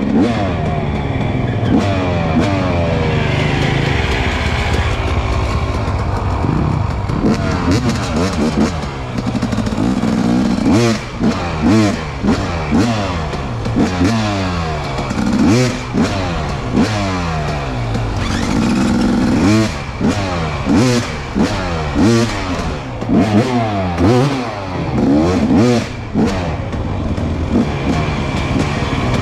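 Dirt bike engine revving over and over, its pitch climbing and dropping with each twist of the throttle.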